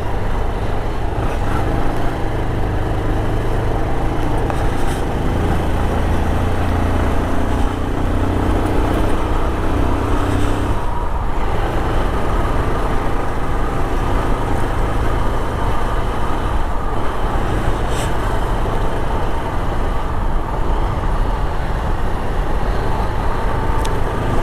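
Motorcycle engine running under way while riding, with steady road and wind noise and surrounding traffic.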